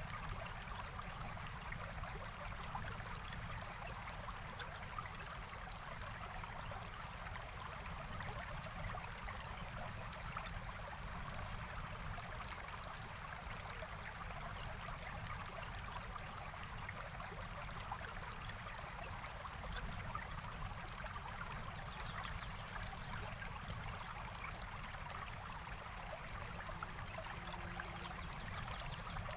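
Forest stream flowing steadily over stones, an even rushing and trickling of water.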